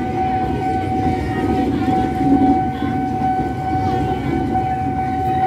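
Tokyo Metro 6000-series commuter EMU passing through a level crossing, its wheels on the rails giving a steady rumble, with the crossing's warning alarm sounding a steady high tone throughout.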